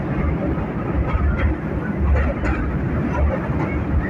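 Metre-gauge passenger train running, heard from inside the coach at an open window: a steady low rumble with irregular clicks and knocks from the running gear.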